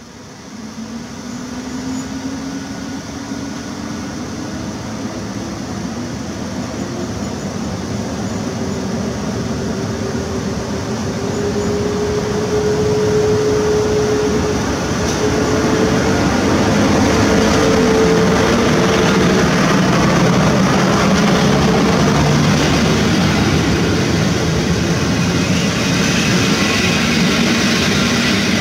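An EP09 electric locomotive hauling Intercity passenger coaches comes closer and passes, growing steadily louder. A whine rises slowly in pitch over the first half and then holds, and near the end the coaches roll past close by.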